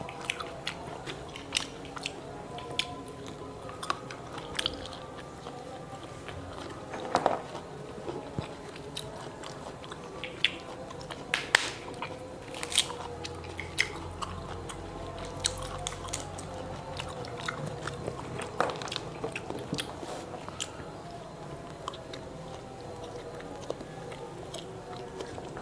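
Close-mic chewing and biting of matoa fruit, with irregular sharp clicks and crackles as the thin brittle shells are cracked and peeled by hand.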